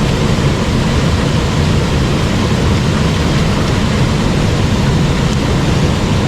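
Mountain stream water rushing over rocks, a loud steady rush with a heavy low rumble.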